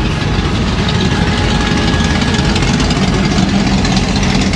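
Vintage car engine running steadily at low revs as a lowered classic sedan rolls slowly past close by, a low, even engine note.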